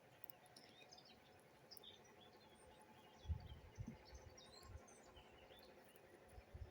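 Small birds chirping faintly, many short scattered chirps, with a few soft low thumps about halfway through and again near the end.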